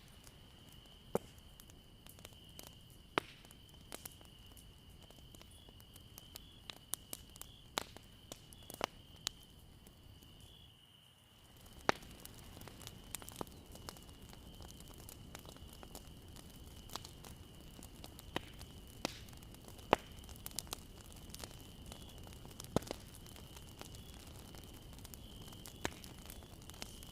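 Wood fire crackling, with sharp pops at irregular intervals over a low hiss. A faint steady high-pitched tone runs underneath. The sound dips briefly about eleven seconds in, then carries on a little louder.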